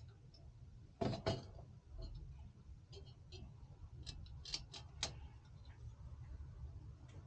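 Sharp clicks and light knocks of small hard parts being handled: a loud double knock about a second in, then a run of short clicks from about three to five seconds, over a steady low hum.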